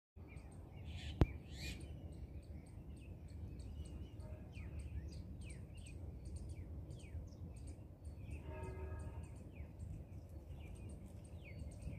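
Small birds chirping, with many short, high, downward-sliding chirps repeating throughout over a low steady rumble. There is one sharp click about a second in, and a brief pitched call near the end.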